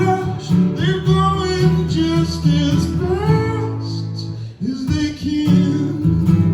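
Live indie rock band playing: guitars with a male voice singing, and a brief drop in the sound about four and a half seconds in.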